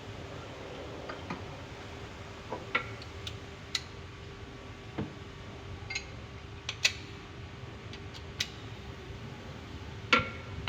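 Irregular light clicks and taps, about a dozen, the loudest near the end, over a faint steady hum.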